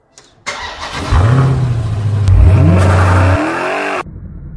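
Car engine revving, its pitch climbing in rising sweeps, then dropping off sharply to a low rumble near the end.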